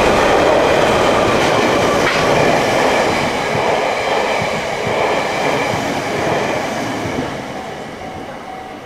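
JR DE10 diesel-hydraulic locomotive passing close, followed by the unpowered Semboku 12000 series electric cars it is delivering rolling by on the rails. Loud at first, the train noise fades steadily from about five seconds in as the train moves away.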